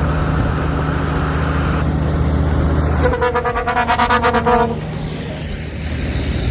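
Heavy truck's diesel engine running steadily under load. About three seconds in, a horn sounds for about a second and a half with a rapid pulsing quality, then the engine drones on alone.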